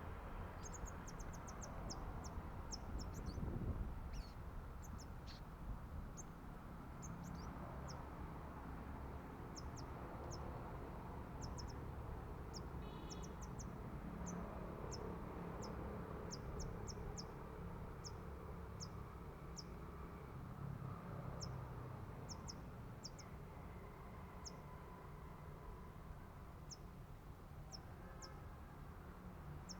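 A small bird giving many short, very high, thin chirps at irregular intervals, over a steady low rumble.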